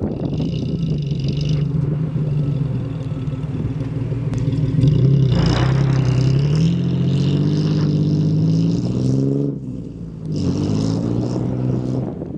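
Lifted Ford Ranger's engine through an MBRP cat-back exhaust, revving hard while the truck drives through deep snow. The pitch climbs steadily from about halfway through, drops off sharply near ten seconds, then rises again.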